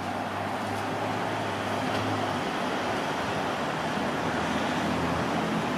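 Electric passenger train running on the tracks, a steady noisy rumble with a low hum that stops about two and a half seconds in.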